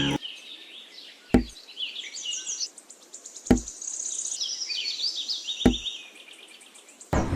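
Three sharp knocks, about two seconds apart, over continuous birdsong with repeated high chirps and trills.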